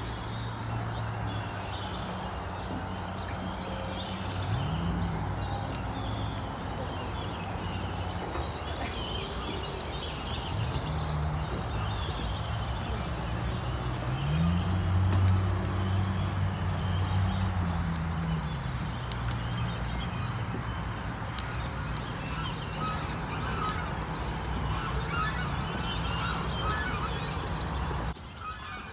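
Waterfowl calling over a park pond, with a steady low drone underneath that slides up and down in pitch a few times and cuts off suddenly near the end.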